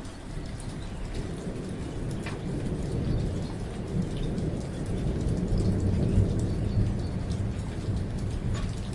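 Steady rain with single drops striking close by. A low rumble of distant thunder swells through the middle and eases off near the end.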